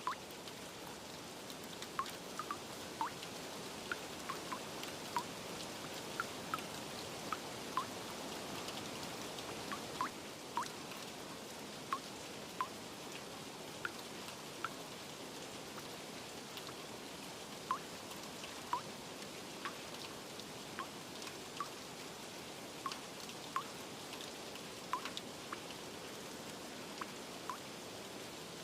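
Steady rain hiss with single water drops plinking irregularly, each a short pitched drip, a couple of dozen across the stretch.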